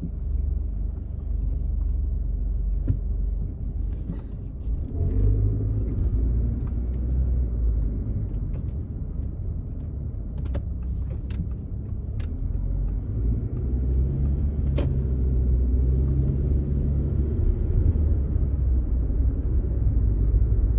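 Car driving, heard from inside the cabin: a steady low rumble of engine and road noise, with a few short clicks.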